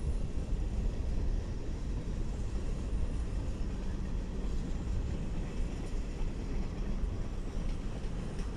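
BNSF oil train rolling past, a steady low rumble of cars on the rails with no horn.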